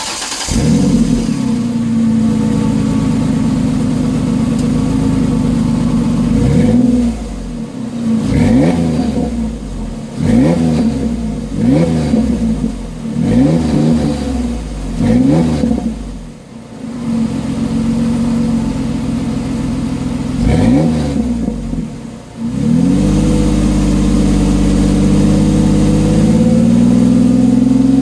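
Ford Ranger's 4.0-litre SOHC V6 running through a new, mild aftermarket exhaust: it runs steadily, then is blipped about six times in quick succession, once more a few seconds later, and held at higher revs near the end. The exhaust gives a low rumble that is not loud and takes on a little tone when revved.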